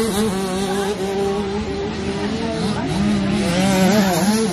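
Motocross bike engines racing, their pitch rising and falling as the riders work the throttles around the track.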